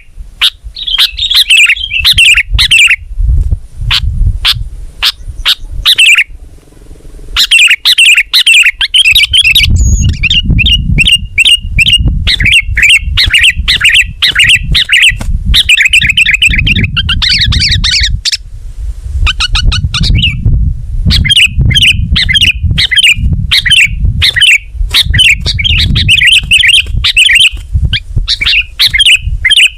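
Sooty-headed bulbul (kutilang) singing loudly in fast, chattering runs of chirps, with a brief pause about seven seconds in. A heavy low rumble sits beneath the song.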